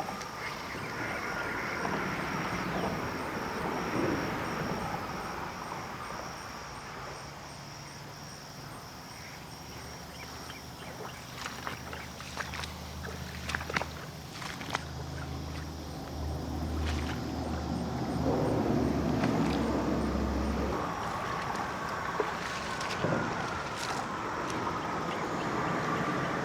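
Creek water noise with scattered sharp clicks, under a low steady engine hum that starts about a third of the way in and stops a little past the three-quarter mark.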